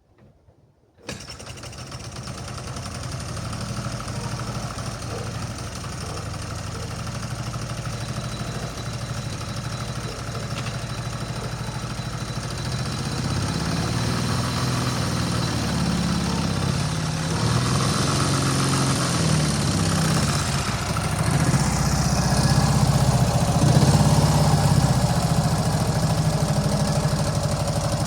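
Ural M67-36 motorcycle's flat-twin engine starting about a second in, then running, gradually getting louder, with uneven revs in the second half.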